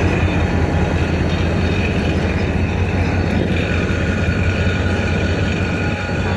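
Train rolling slowly along the track: a steady low rumble with faint, thin high-pitched tones held over it.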